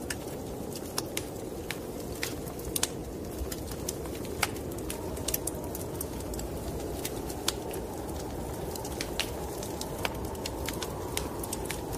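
Wood fire in a fireplace crackling, with sharp irregular pops several times a second, over a steady low rushing of snowstorm wind.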